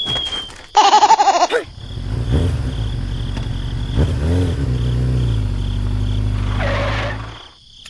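A short, loud, wavering animal-like cry, then a low engine-like rumble for about five seconds that rises briefly in pitch near the middle and stops near the end.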